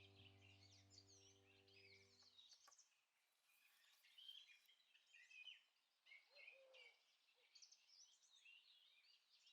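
Faint birdsong: small birds chirping and whistling on and off. Soft background music fades out about two and a half seconds in.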